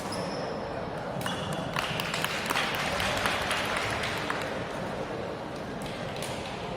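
Badminton court in a sports hall: sneakers squeaking on the court floor, then a few seconds of dense clapping.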